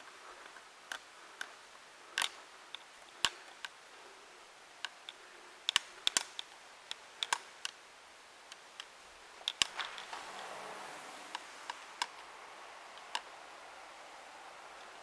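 Irregular sharp clicks and taps, a few much louder than the rest, with a soft rustling swell about ten seconds in, in a small room.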